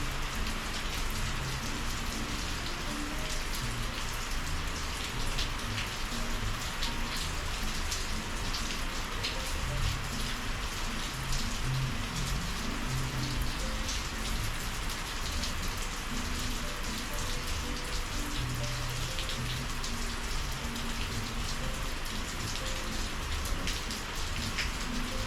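Steady summer rain falling, with many individual drops ticking sharply through the even hiss.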